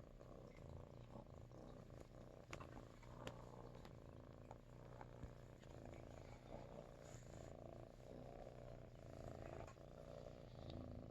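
Russian Blue cat purring steadily and softly, with a few faint clicks over it.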